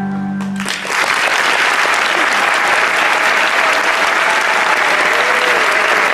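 A held musical chord ends less than a second in, then a crowd breaks into steady applause with a few faint cheers.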